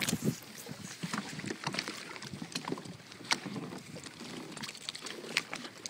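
Irregular clicks and knocks of fishing gear being handled on a kayak while tangled line is sorted out.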